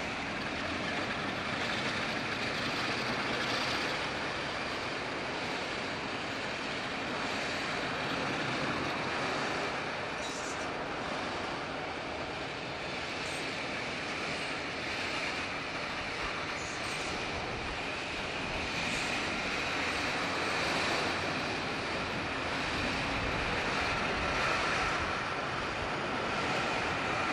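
Diesel-hauled passenger train of blue-and-grey coaches running past along the sea wall, a steady rail noise mixed with waves breaking against the wall.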